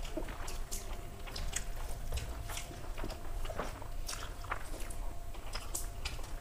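People eating rice by hand: close-up chewing and wet mouth smacks in short, irregular clicks, with fingers mixing rice on the plates.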